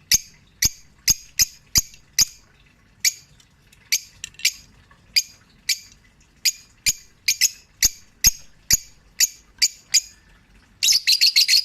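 Peach-faced lovebirds calling in a string of short, sharp chirps, about two or three a second, breaking into a fast, dense burst of chirping near the end.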